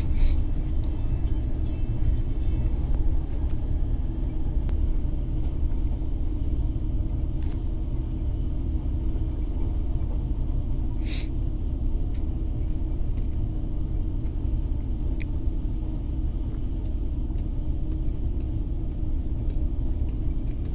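Steady low rumble of a moving passenger train, heard from inside the carriage, with a few brief sharp knocks, the clearest about 11 seconds in.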